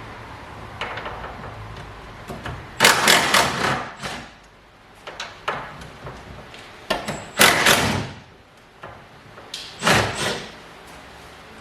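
Car body parts being handled and pulled off: three loud bursts of scraping and clunking with sharp clicks, and smaller knocks in between.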